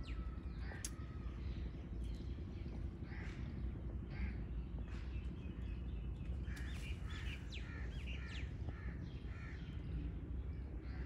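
Birds calling around an open-air aviary: short chirps and calls scattered through, thickest a little past the middle, over a steady low background rumble.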